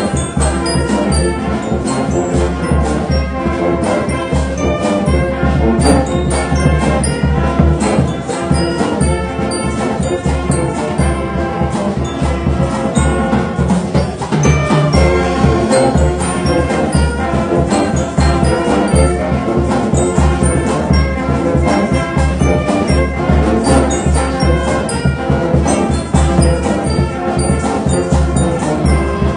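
A band playing brass-led music, trumpets and trombones over bass and a steady drum beat.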